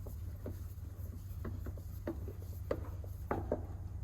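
Light clicks, knocks and rubbing from a spin-on oil filter being handled and set on a drain bucket's grate, over a steady low hum.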